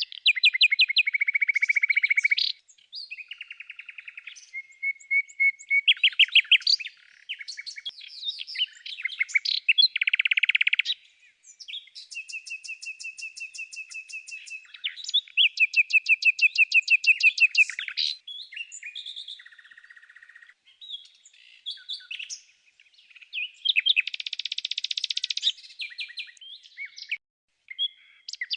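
Songbird singing: fast trills and rapid runs of repeated chirps, phrase after phrase, with short pauses between.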